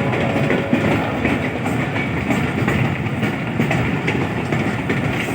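Passenger train running along the track: a steady rumble with the irregular rattle and clatter of wheels over the rails.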